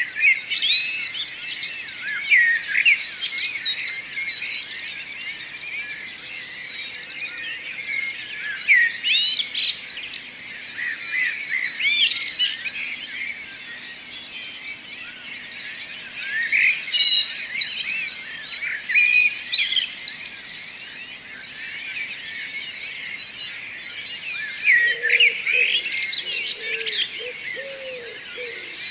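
A morning chorus of several songbirds singing and chirping over one another, with louder phrases coming and going. A lower, repeated call joins about 25 seconds in.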